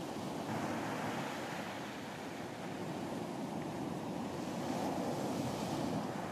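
Surf washing onto a beach: a steady rush of water, swelling as waves break about half a second in and again near the end.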